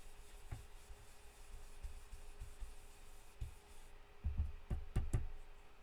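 Blending brush rubbing ink onto cardstock, with a run of soft taps and knocks starting about four seconds in.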